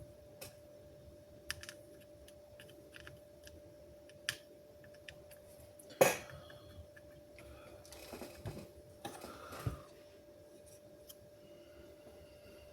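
Light clicks and clinks of small tools and parts being handled on a workbench, with one sharper knock about six seconds in and some rustling handling around the eight-to-ten-second mark. A steady faint tone runs underneath.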